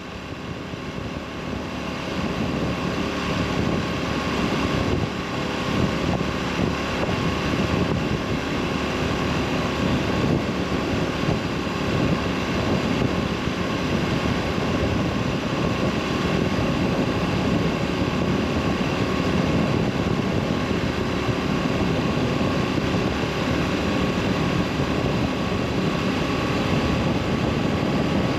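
Engine of a 2003 carbureted Yamaha SR400, its air-cooled single-cylinder, running at a steady cruising speed while riding, with wind and road noise. It fades in over the first couple of seconds and then holds steady.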